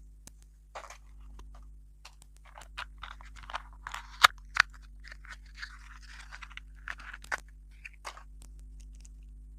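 Chewing of crunchy dessert food: irregular crunches, with two sharp loud snaps a little over four seconds in.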